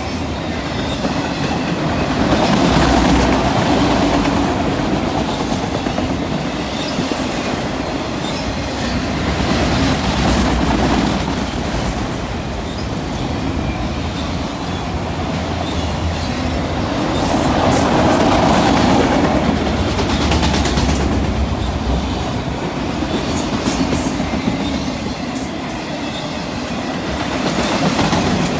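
Freight train rolling past: a steady rumble and clatter of steel wheels on the rails that swells and eases every several seconds as the cars go by.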